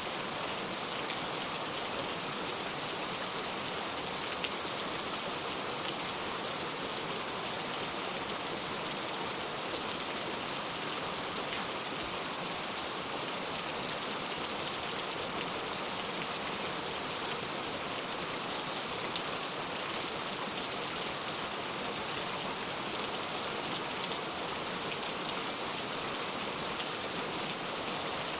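Steady rain falling on the ground, an even patter of many drops.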